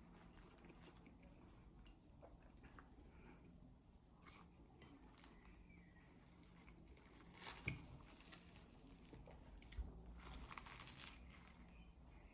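Near silence in a small room, broken by faint rustling and a few light taps, with a brief burst of crinkling about seven and a half seconds in and a single sharp tick near the end.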